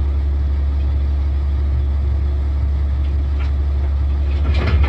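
Steady low engine drone of a running vehicle, heard as from inside or beside it, with a louder, uneven burst of sound starting near the end.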